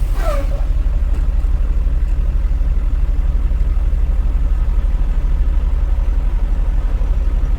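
Semi truck's diesel engine running steadily: a loud, low, evenly pulsing drone.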